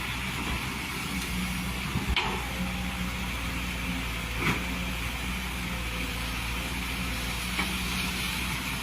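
Hydraulic excavator's diesel engine running steadily, with a constant hiss and a few short knocks, at about two, four and a half and seven and a half seconds in.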